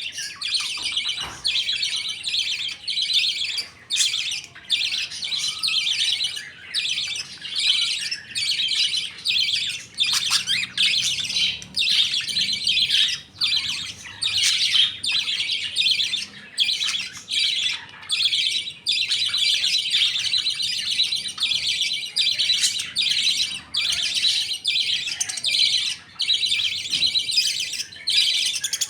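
A colony of budgerigars chattering and chirping all together, a dense, continuous warble with only brief breaks.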